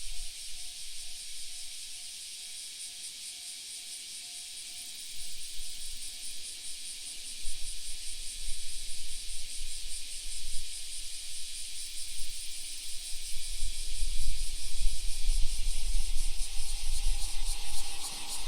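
Wind buffeting the microphone in uneven low gusts, building from about five seconds in, over a steady high hiss.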